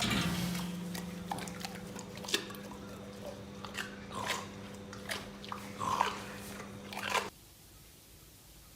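Irregular crunching and clicking, like chewing or biting, over a steady low hum, cutting off abruptly about seven seconds in.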